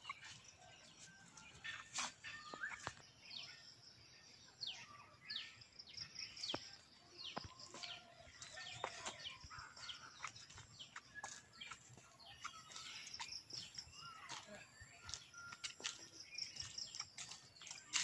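Songbirds chirping: many short, sharply falling whistled notes repeated throughout, with scattered faint clicks in between.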